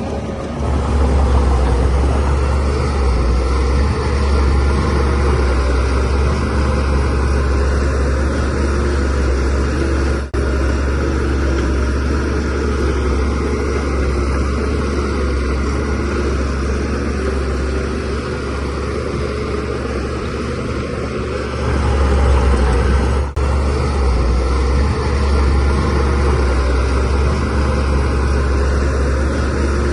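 DH17C3 bulldozer's diesel engine running steadily as the machine works, with two brief dips in level, about a third of the way through and again past the two-thirds mark.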